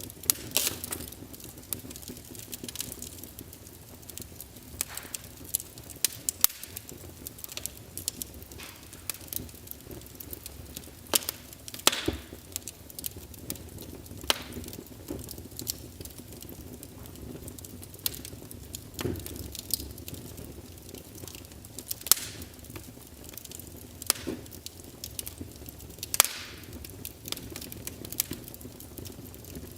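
Small wood fire in a fireplace crackling, with irregular sharp snaps and occasional louder pops over a soft low hiss of flames.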